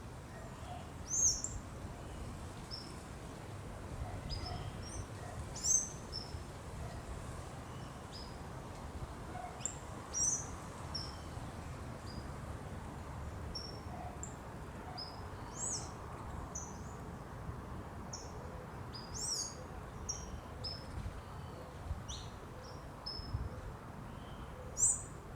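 Birds singing at dawn: short high chirps and whistled notes from several birds at irregular intervals, a few louder calls standing out, over a steady low background rumble.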